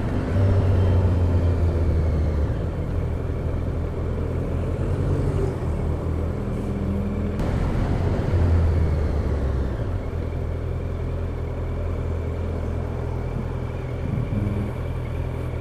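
Motorcycle engine running steadily on the move, its low drone shifting a little a couple of times, under a constant rush of wind and road noise.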